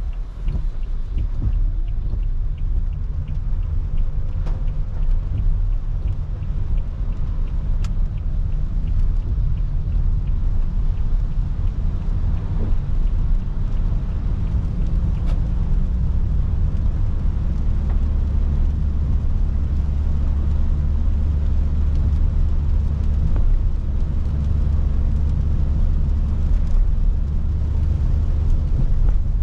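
Car driving on a wet road, heard inside the cabin: a steady low rumble of tyres and engine that grows fuller about halfway through.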